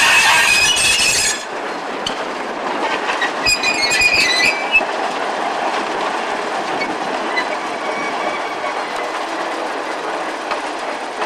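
MLW S-12 diesel switcher with its ALCO 539 engine hauling passenger cars slowly past, wheels rolling and clattering on the rails. Sharp wheel squeal is loudest in the first second and comes again briefly about four seconds in.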